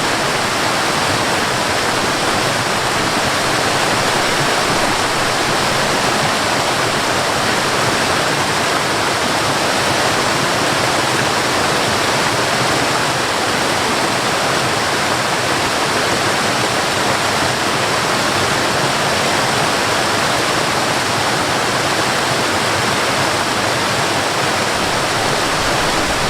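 Mountain waterfall: water falling and rushing in a steady, even roar.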